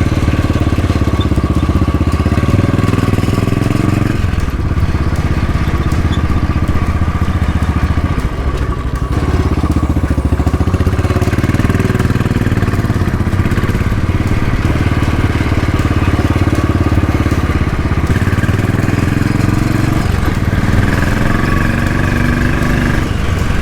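Motorcycle engine running under way, its pitch climbing and then dropping at each gear change, about three times.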